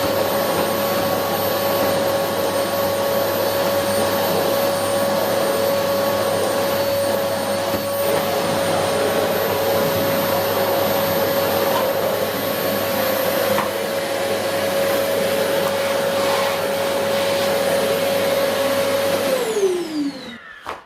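Philips FC8575 canister vacuum cleaner running steadily while vacuuming a carpet, its motor giving a steady whine. About a second before the end it is switched off and the whine falls in pitch as the motor winds down.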